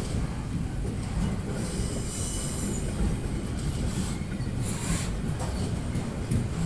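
Double-deck car-carrier freight wagons rolling slowly past on the rails: a steady low rumble of wheels, with a high squeal from about one and a half to three seconds in and again briefly about five seconds in.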